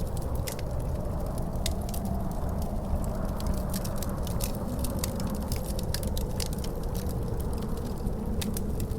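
A wood fire in a fireplace crackling with frequent sharp pops, over a steady low rumble of wind. A faint howl in the wind slowly rises and falls in pitch.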